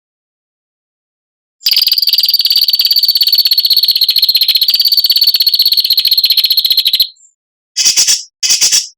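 A songbird's harsh, very rapid rasping trill (the 'besetan' call used in masteran training recordings): one long high buzzing run of about five seconds, then two short bursts near the end.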